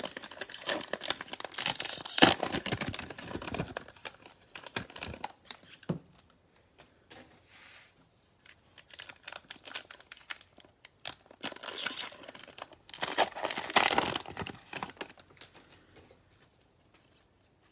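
Cellophane wrapper of a Prizm football cello pack crinkling as it is torn open and handled, in two noisy spells of a few seconds each with quieter light rustles and clicks between.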